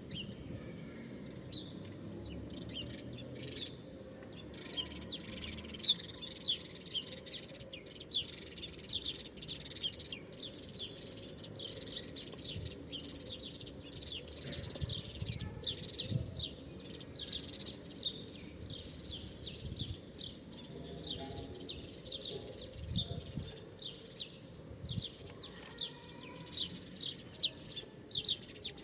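A crowd of small birds chirping continuously, many short high chirps overlapping, with a low steady rumble underneath.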